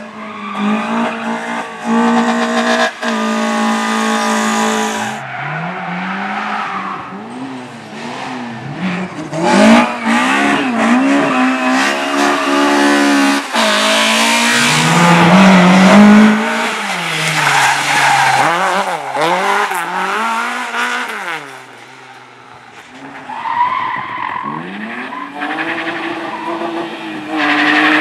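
Slalom race car engine revving hard, its pitch rising and falling again and again as it is driven through the cones, with tyres squealing and skidding. It is loudest about ten and sixteen seconds in and drops briefly a few seconds before the end.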